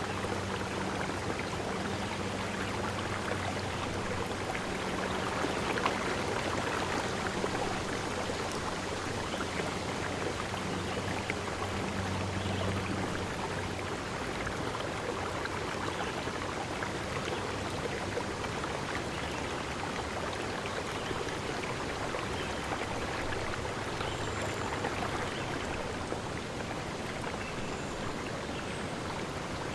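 Steady rushing of a forest stream, with a faint low hum under it for roughly the first half and a few faint high chirps near the end.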